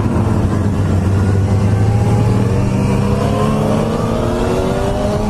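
Motorcycle engine running at speed over a steady rush of wind noise, its pitch climbing steadily through the second half as it accelerates.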